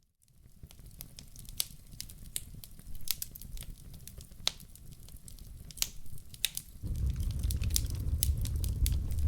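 Wood fire in a fireplace crackling, with many sharp, irregular pops and snaps. About seven seconds in, a louder steady low rumble comes in beneath the crackles.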